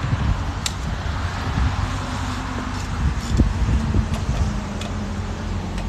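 A steady low engine hum, with a few light metallic clicks from a lug wrench being worked on the wheel's lug nuts.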